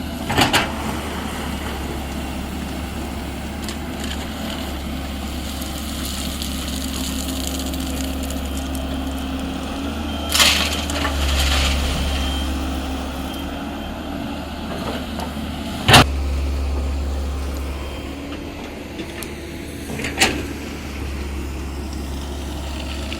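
Komatsu PC210-10 hydraulic excavator's diesel engine running steadily under load, broken four times by short, loud crashes of crushed stone being loaded into a truck.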